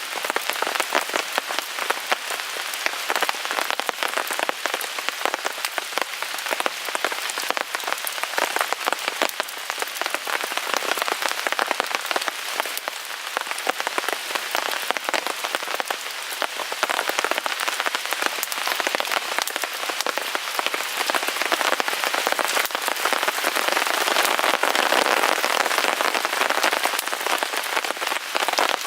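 Rain pattering steadily on a tarp, with a wood fire crackling in a small folding fire grill, the patter growing a little louder near the end.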